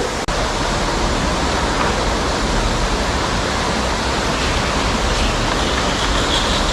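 Loud, steady rushing of a tall waterfall, about 280 feet high, pouring into a sinkhole.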